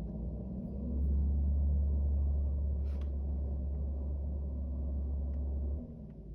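Garbage truck's diesel engine run up to higher revs, a steady deep rumble that starts about a second in and drops back near the end. A brief sharp noise about three seconds in.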